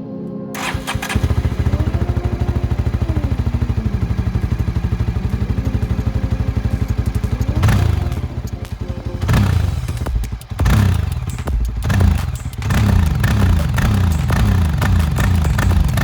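Yezdi Adventure's 334cc single-cylinder engine idling steadily, then blipped several times from about halfway, the revs climbing and falling back each time.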